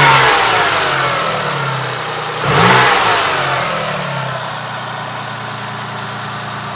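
Toyota Harrier's 3-litre 1MZ V6 engine being blipped on the throttle: the revs drop back from a blip at the start, rise again in a quick second blip about two and a half seconds in, then settle to a steady idle.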